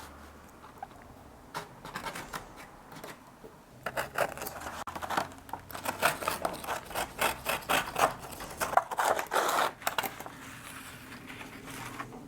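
Quick, irregular scraping and clicking of hand work on the back of an antique convex mirror frame, dense for several seconds in the middle, then easing off.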